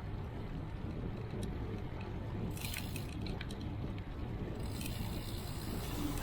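Steady low wind and ride rumble on a moving bicycle's camera microphone. Light metallic jingling comes twice, about two and a half seconds in and again from about five seconds in.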